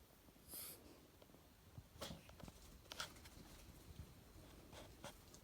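Near silence, broken about half a second in by a dog's short breathy puff of air during a reverse-sneezing fit, followed by a few faint clicks.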